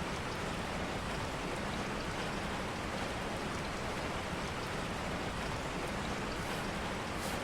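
Steady rain ambience: an even hiss of rain falling, with a couple of faint, brief high ticks near the end.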